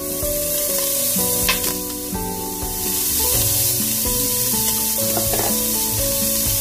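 Diced kielbasa sausage sizzling as it browns in a stainless steel pan, the sizzle growing louder about halfway through, over soft background music with sustained notes.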